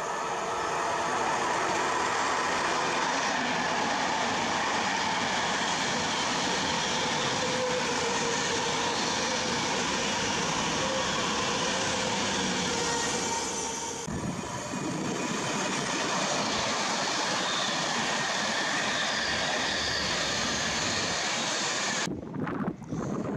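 Avanti West Coast Class 390 Pendolino electric train running alongside the platform, a loud steady rush of wheel and rail noise that eases briefly about two-thirds of the way through. Shortly before the end it breaks off into wind on the microphone.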